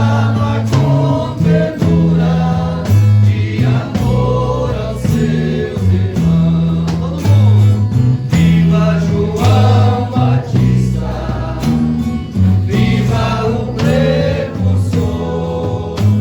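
A group singing a Catholic entrance hymn to instrumental backing, with a bass line of held low notes that change about every second.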